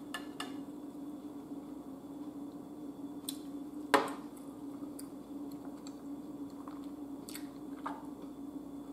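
Close-miked chewing and wet mouth sounds of a person eating, with a few scattered sharp clicks, the loudest about four seconds in. A steady low hum runs underneath.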